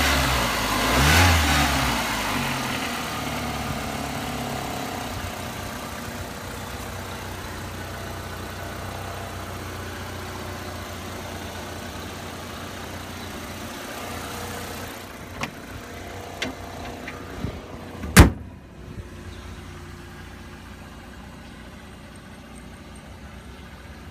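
1999 Mercury Tracer's 2.0-litre Split Port Induction four-cylinder engine revved briefly twice, then settled into a steady idle. About three-quarters of the way through, a few light clicks come before a single loud bang of the hood slamming shut, and the idle is more muffled after it.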